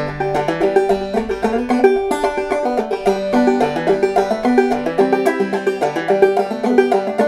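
Five-string banjo played clawhammer style: a quick, steady run of plucked notes in the bum-a-diddy rhythm, the melody over a repeated high drone string.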